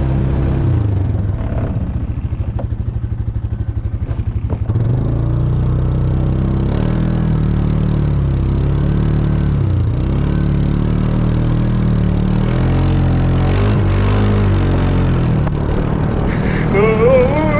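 Four-wheeler (ATV) engine running close by, its pitch rising and falling several times as it is revved. For a couple of seconds near the start it settles into a fast, even pulsing.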